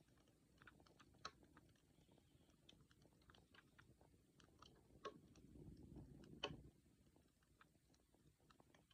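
Wood campfire crackling softly: scattered small pops and snaps over a low rustle of burning, with a sharper pop about two-thirds of the way through.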